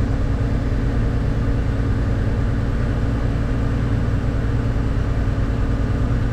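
Farm tractor's diesel engine running steadily: an even low hum under load with no change in speed.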